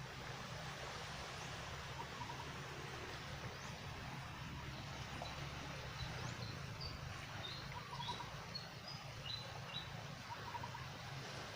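Birds chirping: a run of short, high chirps through the middle, and a short, lower three-note call repeating every couple of seconds, over a steady low hum and hiss.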